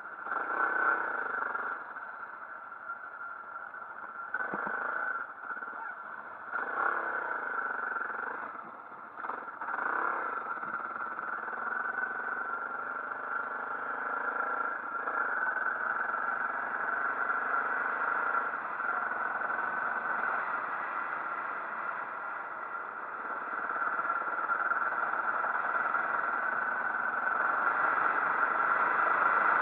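Motorcycle running on the move, engine and rushing noise together, with a few uneven surges early on and the level building toward the end.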